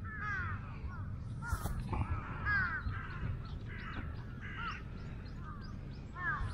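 Birds calling outdoors, a series of short arching calls repeated in small clusters, over a low rumble.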